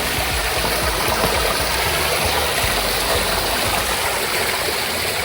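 Stream water rushing steadily, a constant loud flow.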